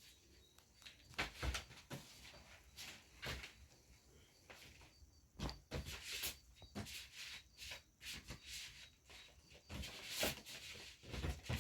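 Irregular light clicks, knocks and rustles of parts being handled and set down.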